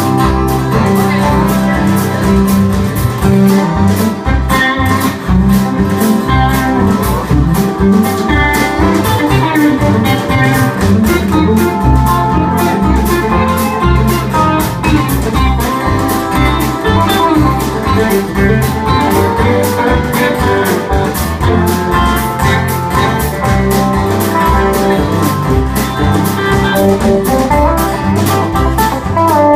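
A live country band plays an instrumental break: guitar lead over bass and a steady beat, with no singing.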